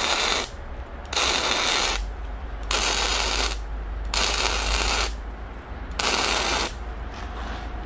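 Electric arc welding on the steel body of a homemade wood-stove grill: five short spells of welding arc, each under a second, about a second and a half apart, as the outer wall seams are welded.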